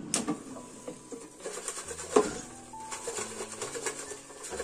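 Soft background music with held notes, over scattered sharp clicks and knocks of handling things. The loudest knock comes about two seconds in.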